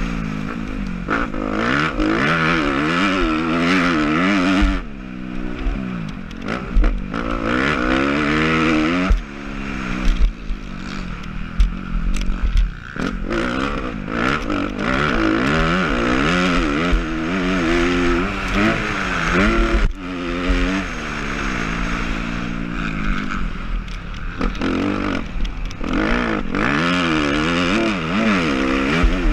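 Suzuki RM-Z250 four-stroke single-cylinder motocross bike revving hard under racing throttle. The pitch climbs and falls again and again as the throttle opens and shuts through gear changes, with brief drops where the rider backs off.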